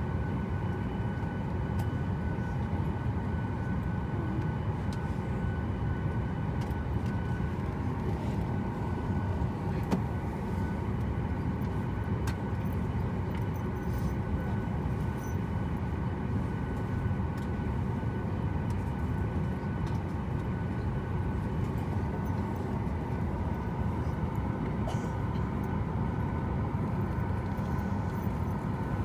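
Steady airliner cabin noise at the gate before pushback: a constant low rumble of air-conditioning airflow and aircraft systems, with a few faint steady whining tones and an occasional faint click.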